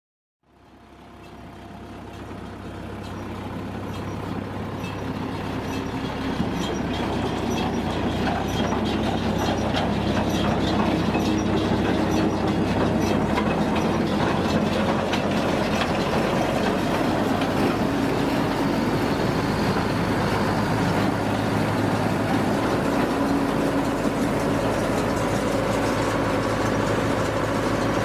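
Farm tractor engine running steadily with mechanical clatter, as with a round baler being driven. The sound fades in over the first few seconds, and the low engine note shifts about halfway through.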